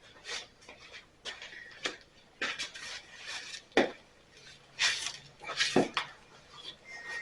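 Irregular metallic clinks, knocks and scrapes of hand tools and metal parts being handled, about a dozen in all, the sharpest a little before four seconds in and again around five and six seconds.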